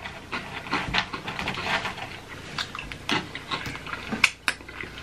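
Flamin' Hot Cheetos being crunched and chewed: irregular crisp crackles, with a couple of sharper snaps near the end.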